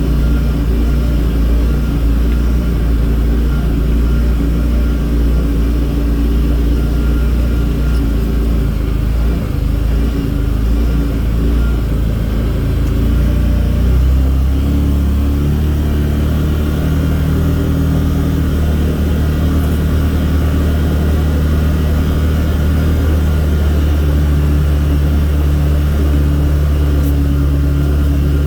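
Engine of a small off-road vehicle running steadily as it is driven along a rough trail, with a change in the engine note about halfway through.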